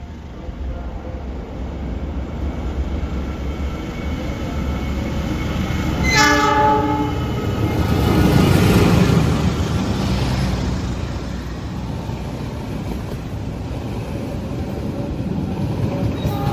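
A train approaching and passing through the station, its rumble building, with one short horn blast about six seconds in; the run-by is loudest a couple of seconds after the horn, then settles to a steady rumble.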